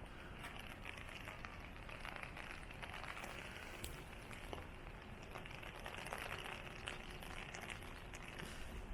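Steady rain falling, with many small irregular ticks of drops pattering.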